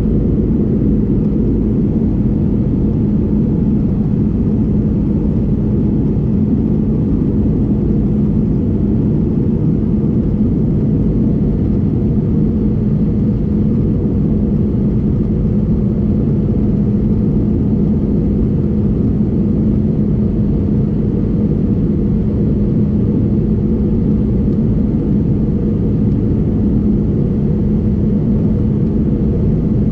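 Steady cabin noise inside an Airbus A320neo in flight: a low rumble of its Pratt & Whitney geared turbofan engines and the airflow, with a constant hum underneath.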